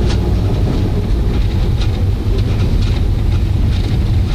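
VR Holden Commodore rally car at speed on a rally stage, its engine under load with heavy road and tyre noise, heard from inside the cabin as a steady low drone.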